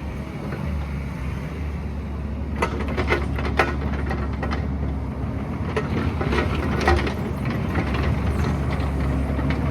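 Excavator's diesel engine running steadily, with a run of sharp knocks and clanks through the middle.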